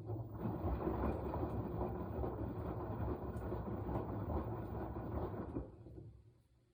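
Washing machine running its wash cycle: the motor turns the drum for about six seconds, a steady low hum under a churning rumble of laundry and water, then it stops.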